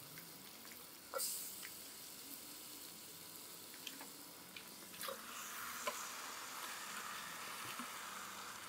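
Marinated chicken pieces going into a large pot of hot frying food, which sizzles quietly. There are short bursts of spattering as handfuls land, and the sizzle grows stronger about five seconds in.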